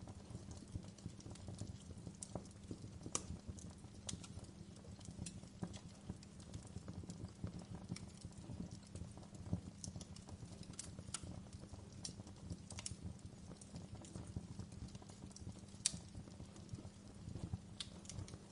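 Wood fire crackling: irregular sharp pops and snaps over a steady low rumble of flames, with one louder pop near the end.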